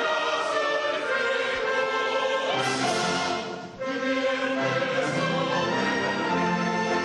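Choir singing with a symphony orchestra in sustained phrases, with a short break between phrases near the middle.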